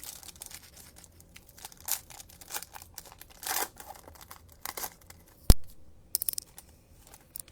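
A foil trading-card pack being torn open, its wrapper crinkling in short rustles. A single sharp click about five and a half seconds in, followed by a quick run of small ticks.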